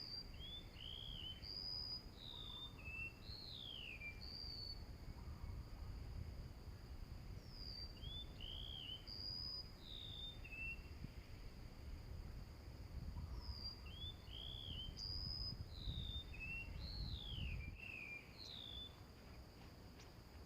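A small songbird's phrase of quick high chirps and down-slurred notes, repeated three times at even spacing. A steady high insect tone runs underneath, with a low rumble that stops near the end.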